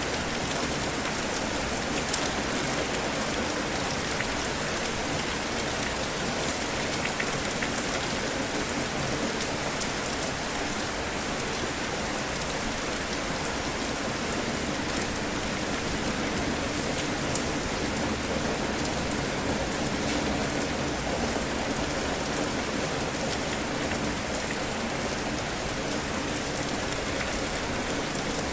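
Steady rain falling and pattering on a surface, with many small drop ticks in an even hiss.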